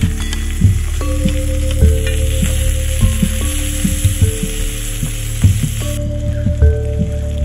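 Beef skin (kikil) with petai beans sizzling and frying in a pan over a campfire. Soft background music plays under it, with held notes and a steady beat.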